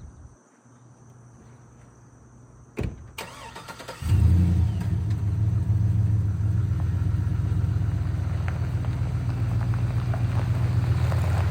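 A sharp knock, then a truck's 6-litre engine cranks and starts about four seconds in and runs steadily.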